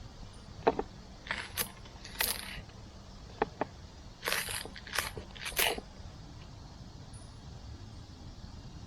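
Light metallic clinks and short scrapes of camp cookware and gear being handled, about a dozen small knocks and rustles over the first six seconds, then only quiet background.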